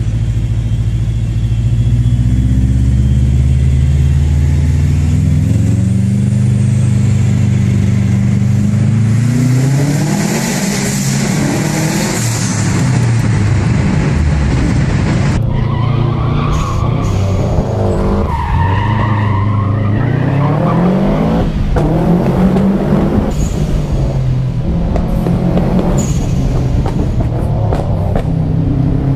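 Subaru Impreza WRX STI's turbocharged flat-four accelerating hard, its pitch climbing and falling back through several gear changes. It has the uneven, burbling exhaust note made by unequal-length headers that send uneven pulses into the exhaust. There is a stretch of tyre or gravel noise about ten seconds in, and an abrupt switch to another run about halfway.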